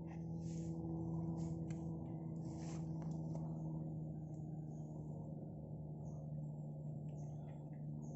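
A vehicle engine running at a steady speed: a constant low hum that holds the same pitch throughout, with faint hiss over it.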